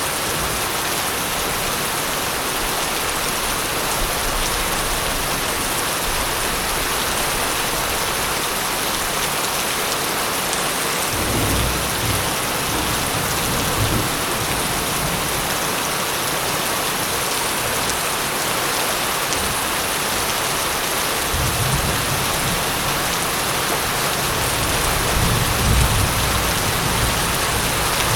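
Steady heavy rainfall, with low rolls of thunder rumbling about a third of the way in and again through the last third.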